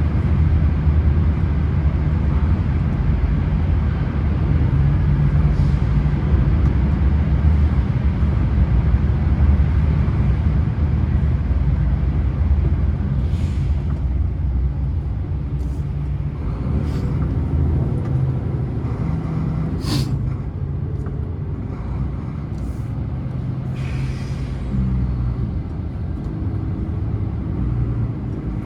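Diesel engine of a Scania heavy vehicle running steadily while descending a mountain road, with several short air hisses from the air brakes in the second half.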